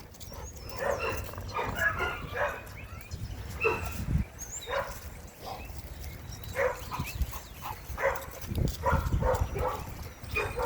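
Several dogs barking and yipping in short, irregular barks, the energy of a worked-up pack in the yard.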